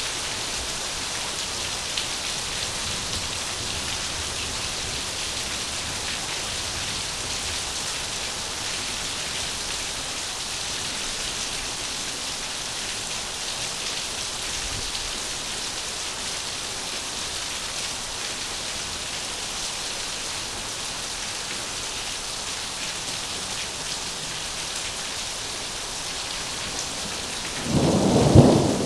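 Heavy rain falling steadily, a dense even hiss. Near the end a loud rumble of thunder breaks in.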